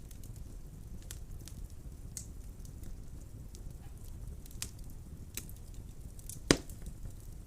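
Wood fire burning in a fireplace: a steady low rumble of flames with scattered sharp crackles, and one loud pop near the end.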